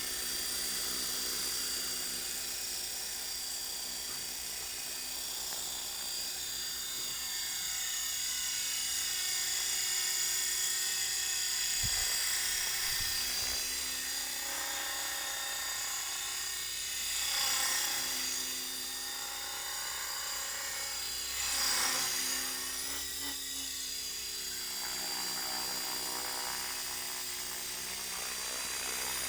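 Electric Tarot 450 Pro flybarless RC helicopter running, with a high motor and gear whine and rotor noise throughout. Its pitch rises and falls, and it grows louder twice, around the middle and again a few seconds later.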